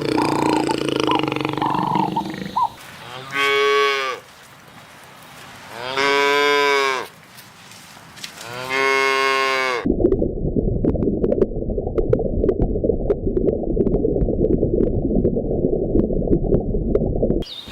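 Cow mooing: three separate moos about a second each, each rising and falling in pitch. These are followed by a steady low rumbling noise with scattered faint clicks for the last several seconds.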